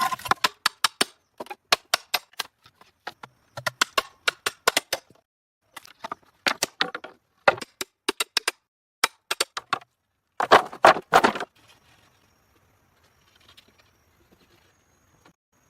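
A long run of sharp knocks or cracks in irregular clusters, some several a second, stopping about eleven and a half seconds in.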